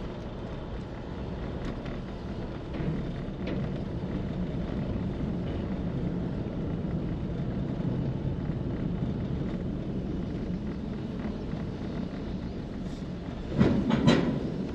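Steady low rumble of a vehicle running, with a short clatter of louder knocks near the end.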